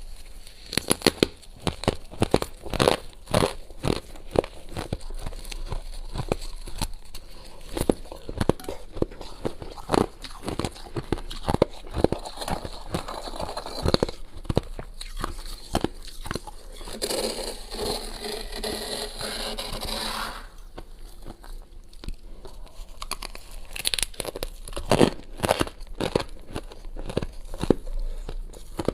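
Thin, crunchy freezer frost and ice being crunched and scraped up close: many sharp crackling crunches, with a denser scratchy stretch of about three seconds past the middle.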